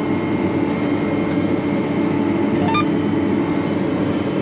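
Farm tractor engine running steadily while it pulls a planter across the field, a constant drone.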